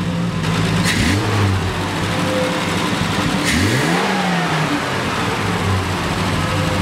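1973 Triumph TR6's 2.5-litre straight-six engine running on its freshly balanced twin carburettors, blipped twice: the revs rise about a second in, then rise higher around three and a half seconds and fall back toward idle.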